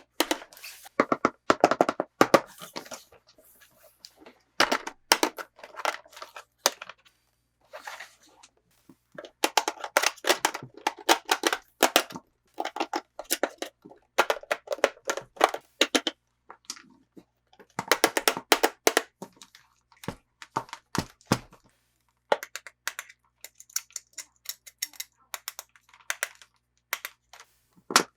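Toy packaging being opened by hand: bursts of crackling plastic and cardboard with tearing and occasional thunks, coming in clusters with short pauses between them.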